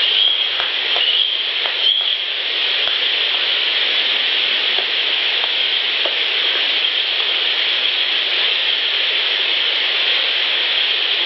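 Steady loud hissing noise from an outdoor field recorder, strongest in the upper middle range, with a few faint short chirps in the first two seconds.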